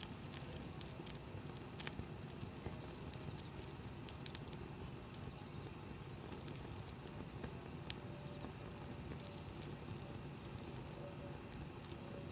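Wood campfire burning with a steady low hiss, broken by a few sharp pops and crackles, three of them louder than the rest.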